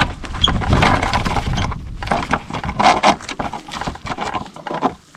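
Irregular clicks, knocks and scrapes of a large magnet against metal as it is worked into a tight hole in the tractor's control housing to fish out a dropped screw.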